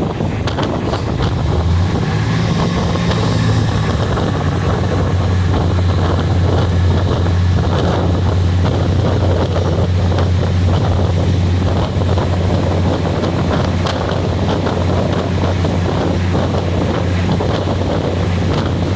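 Passenger train running, heard with heavy wind buffeting the microphone. A steady low engine hum sits under a constant rushing rumble.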